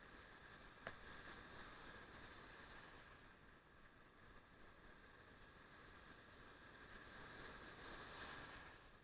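Faint wash of surf, swelling briefly near the end, with one sharp click about a second in.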